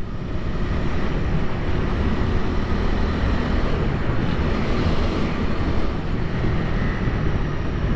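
Steady riding noise from a Honda Rebel 300 motorcycle under way: wind rushing over the microphone, with the bike's single-cylinder engine running underneath.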